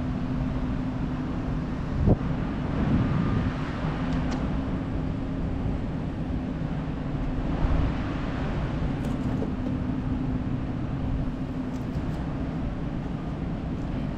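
Steady low engine hum, like a diesel idling, with a couple of brief knocks, one about two seconds in and one about halfway through.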